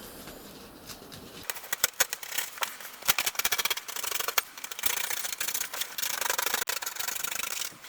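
Scratchy hand rubbing and scraping on the headliner board. It starts as scattered sharp scrapes and becomes denser and steadier about halfway through.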